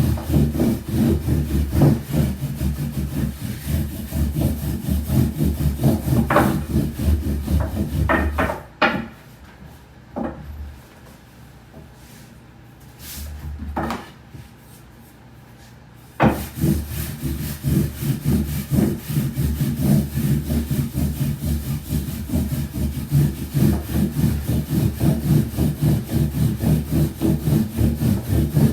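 Wooden rolling pins rolling out soba dough on a wooden board, a steady back-and-forth rubbing of wood on dough and board. It pauses for several seconds partway through, with a few light knocks, then resumes.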